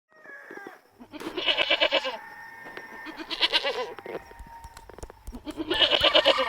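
A goat bleating three times, each call quavering and lasting under a second.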